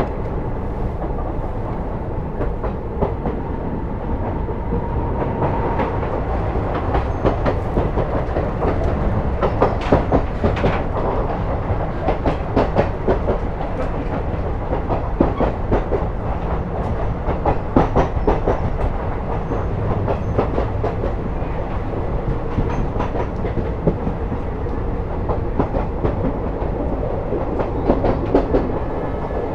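Passenger train running, heard from aboard a coach: a steady rumble of wheels on track with frequent clicks and rattles as the wheels pass over rail joints.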